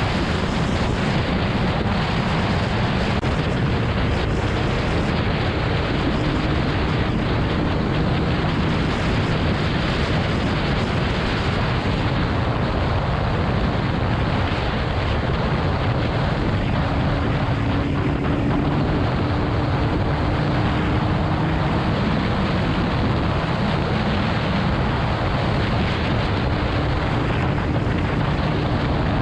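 Steady wind rush on the microphone of a motorcycle cruising at highway speed, with the bike's engine running steadily underneath.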